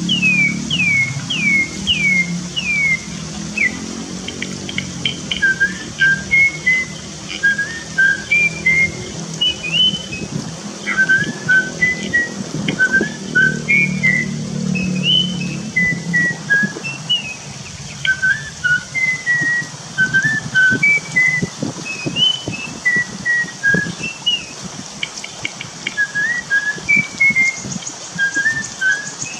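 Cucak keling bird whistling, first five quick falling slurs and then a long string of short, clear two-note phrases repeated about once a second.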